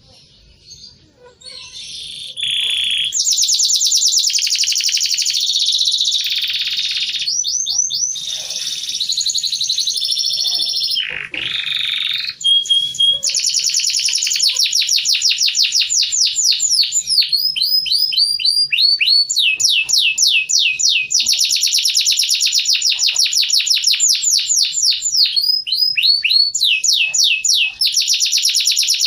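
White-crested domestic canary singing a long, loud song of rapid trills and rolls, many quick repeated notes and downward sweeps, with a short break about twelve seconds in.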